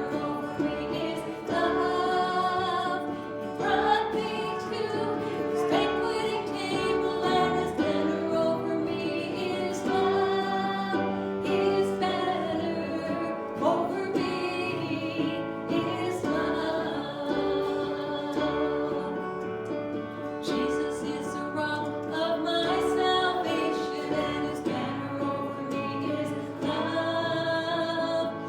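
Church worship song: a female voice and other voices singing a sustained melody with instrumental accompaniment.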